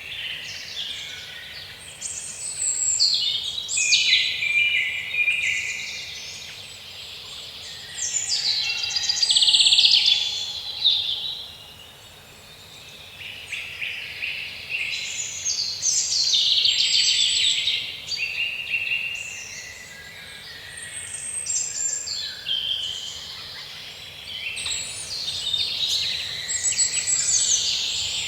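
A chorus of several songbirds singing and chirping at once, with rapid trills and chirps that swell and fade in waves every few seconds over a faint steady background hiss.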